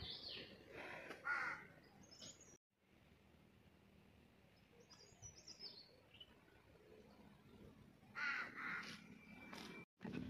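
Birds calling outdoors: a few harsh calls at the start and again near the end, with brief high chirps from a smaller bird in between. The sound cuts out completely for a moment twice.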